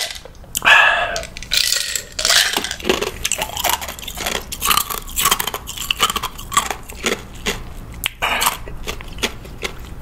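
Close-miked eating sounds: one louder mouth or throat sound about a second in, then chewing with many small mouth clicks.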